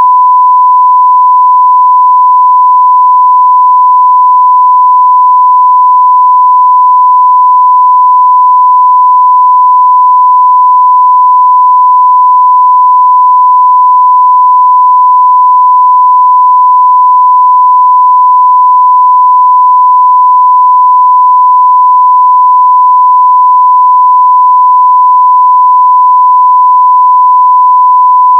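A steady 1 kHz sine-wave test tone at full level (0 dB reference), a single pure pitch held without change.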